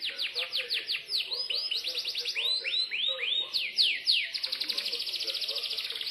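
Yorkshire canary singing in repeated phrases: first a run of quick falling whistled notes, then slower arched notes, then a fast, even trill from about four seconds in.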